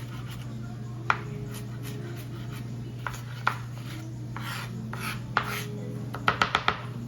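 Kitchen clatter: dishes and utensils knocking and clinking a few times, with a quick run of four sharp knocks near the end, over a steady low hum.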